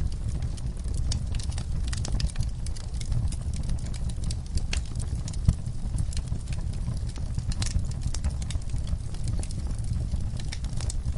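Wood fire burning in a fireplace: logs crackling with many irregular sharp pops over a steady low rumble of flame, with one louder pop about five and a half seconds in.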